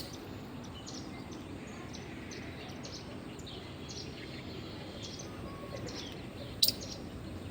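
Outdoor background noise with small birds chirping now and then, and one sharp click about six and a half seconds in.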